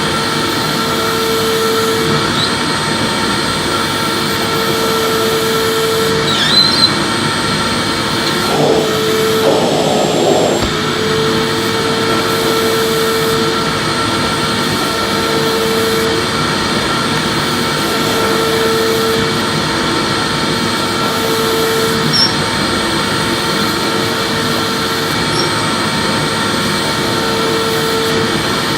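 Electric vacuum cleaner running steadily while being pushed back and forth: a constant rushing motor noise with a faint whine, and a lower hum that comes and goes every two to three seconds with the sweeping strokes.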